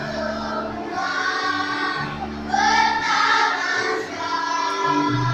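A choir singing a melody over low held notes that change every second or so.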